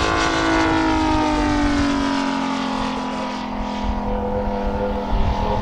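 MOKI 250 radial engine of a quarter-scale RC Grumman F4F Wildcat running in flight. Its note falls in pitch over the first couple of seconds, then holds steady.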